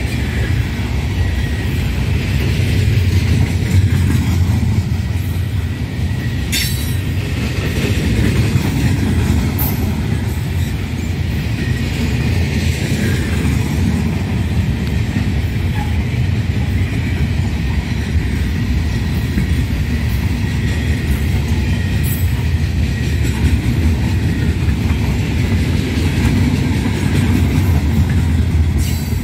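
Freight train of gondola cars rolling past at speed: a steady low rumble of steel wheels on rail, with a few sharp clanks.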